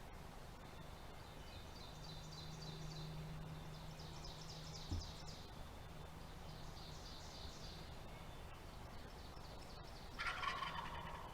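A wild turkey gobbling once, about ten seconds in; it is the loudest sound. Before it come three faint, quick, high-pitched rattling series and a brief low thump.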